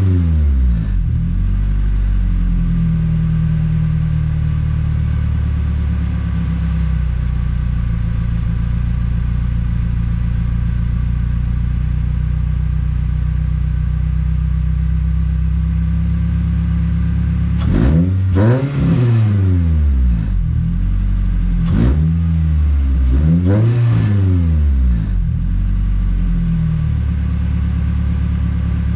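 Toyota 2AR 2.5-litre four-cylinder engine, swapped into a RAV4, idling steadily through a newly fabricated exhaust with a resonator and muffler. In the second half it is revved three times, each rev rising and falling back to idle.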